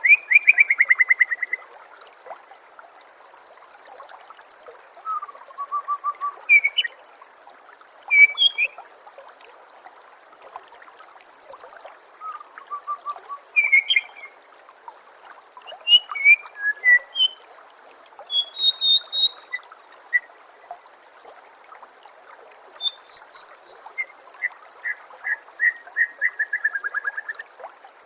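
White-rumped shama singing a varied song of rapid rattling trills, whistled phrases and high chirps, over steady trickling water. The rattling trills come near the start and again near the end.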